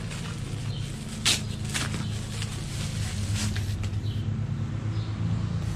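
Steady low machine hum, with a few short clicks and rustles about a second in and again past three seconds.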